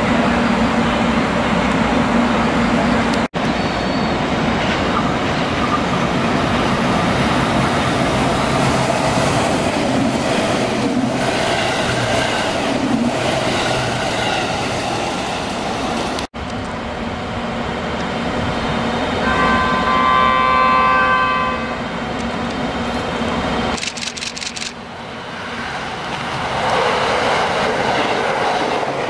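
Trains running by, in a few short shots joined by sudden cuts. A horn sounds for about two seconds partway through, and the rumble swells again near the end.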